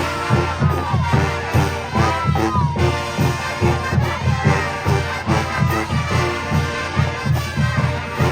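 Marching band playing: brass section holding and sliding notes over a quick, steady drumline beat.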